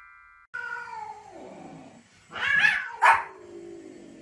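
A cat meowing in a drawn-out call that falls in pitch, then a louder meow, and a white Pomeranian giving one sharp, loud bark about three seconds in.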